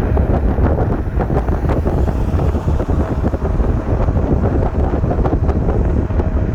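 Wind buffeting the chest-camera microphone of a rider on a moving electric scooter, a steady low rumble, with scattered short clicks and knocks from the ride.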